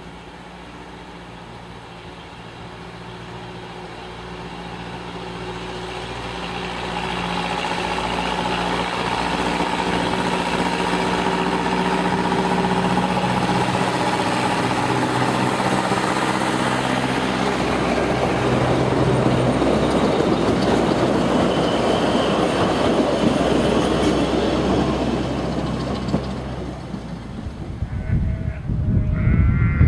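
A narrow-gauge train approaching and passing on the rails, with a steady running note and wheel noise. It grows louder over the first quarter, stays loud, then drops away near the end.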